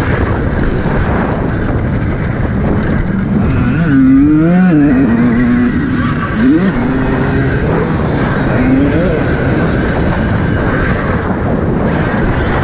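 Steady loud rush of wind and tyre-on-dirt noise on a helmet camera while riding an Alta Redshift MXR electric motocross bike. About four seconds in an engine note rises and falls, with shorter revving glides near the middle.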